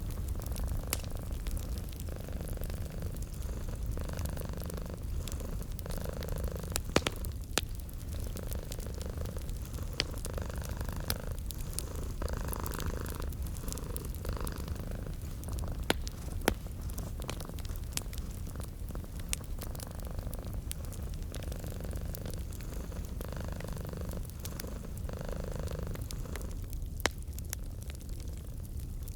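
A domestic cat purring: a low, steady rumble that swells and eases with each breath. Wood fire crackling over it, with scattered sharp pops, a few of them louder than the rest.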